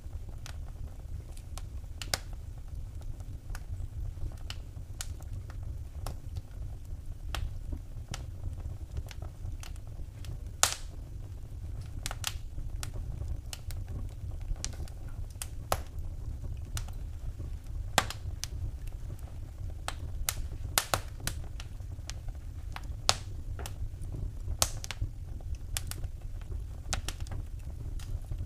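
Wood fire burning in a fireplace, crackling with irregular sharp pops, a few louder snaps among them, over a steady low rumble of the flames.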